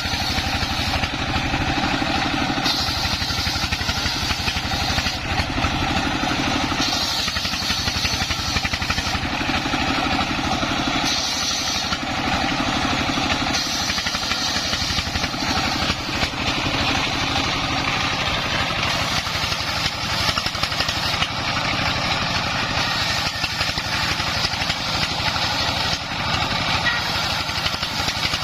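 Dongfeng 24 hp single-cylinder diesel engine running steadily, driving a homemade circular saw rig. A higher-pitched sawing sound comes and goes every few seconds as the blade cuts through the wood.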